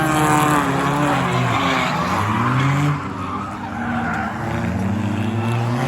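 Several race cars' engines running together on a short oval, their pitches rising and falling as they pass, with tyres skidding and hissing through the first half.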